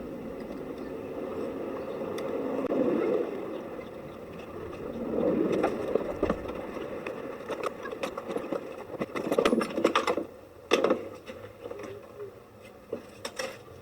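Rustling and scraping handling noise as the old car battery is worked out of the battery compartment, rising and falling in swells, then several sharp knocks and clunks about ten seconds in and again near the end.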